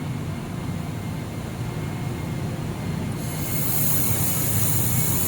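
Air-cooled handheld laser welder running with a steady low hum, joined about three seconds in by a sudden high hiss that continues as the trigger is pressed and welding begins.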